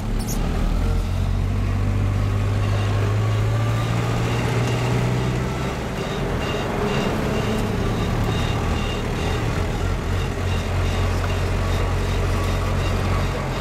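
Car driving along a road: steady engine hum and road noise heard from inside the cabin.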